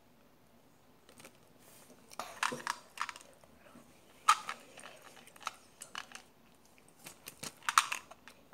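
Close-up chewing and mouth sounds of someone eating sweets, in irregular bursts of clicks and crackles, the sharpest about four seconds in and another cluster near the end.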